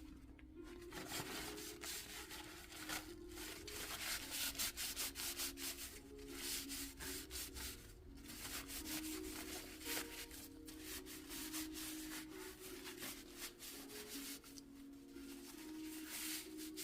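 Hand sanding: repeated rubbing strokes of an abrasive over a hard surface, coming in bursts with short pauses, over soft background music.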